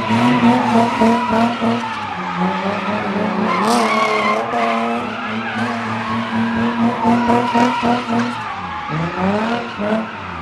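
A car engine held at high revs while its tires spin and squeal. The revs drop and climb again about four seconds in, and rise once more near the end.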